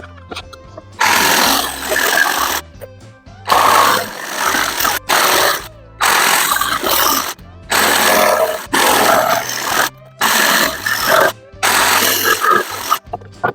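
Jigsaw cutting wood in a series of short runs, about a second each, stopping and starting again roughly eight times, with background music underneath.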